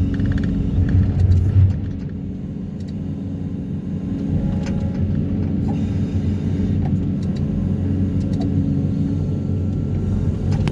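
Excavator fitted with a vibro hammer running, a steady low engine rumble that swells briefly about a second in.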